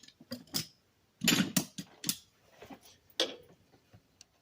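Hand tools working on metal fasteners: a handful of short clicks and clanks from a wrench or ratchet, the loudest about a second and a half in.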